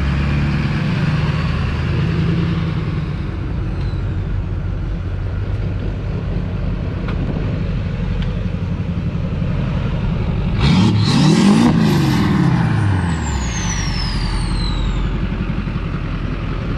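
Diesel truck engine running steadily, then revved once about two-thirds through, its pitch rising and falling back. A high turbo whistle winds down afterwards.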